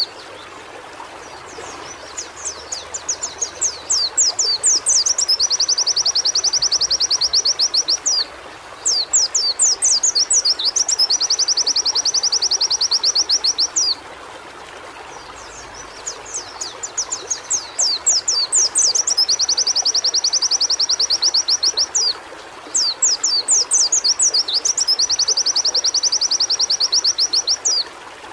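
White-eye (pleci) singing: four repeated phrases, each a run of quick sweeping whistles that leads into a long, fast, even trill, with short pauses between. A steady hiss runs underneath.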